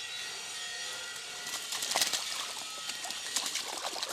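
Water splashing and trickling. A run of short splashes begins about a second and a half in, over a steady hiss.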